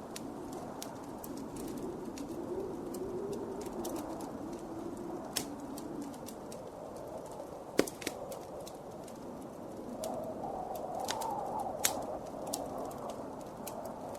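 Blizzard wind howling, its pitch wavering slowly up and down, over a wood fire crackling with scattered sharp pops; the loudest pops come about eight seconds in and again near twelve.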